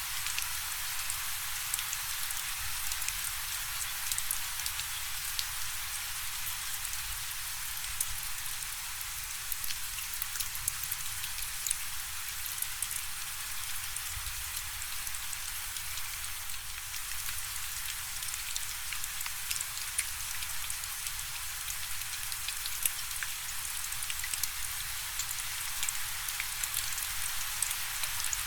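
Steady rainfall, a dense patter of drops hitting a surface, with individual sharper drop ticks scattered throughout.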